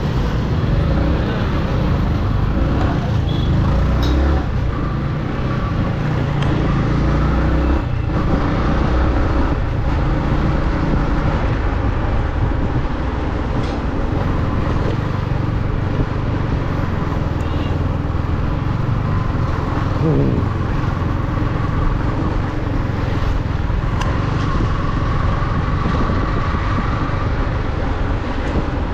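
Yamaha MT-15 V2 motorcycle on the move in city traffic: its 155 cc single-cylinder engine running, with wind rush and the noise of surrounding vehicles.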